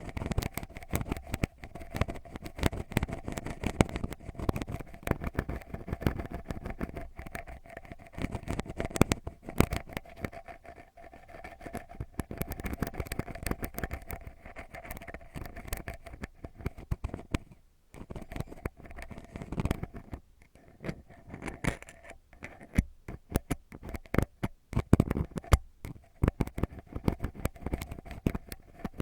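Ear pick scratching and scraping deep in the ear, at the eardrum, close on the microphone: a dense, irregular run of crackling scratches with a couple of brief pauses partway through.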